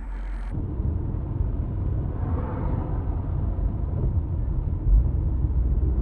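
Car driving, heard through a dash camera: a steady low rumble of engine and road noise, with one short thump about five seconds in.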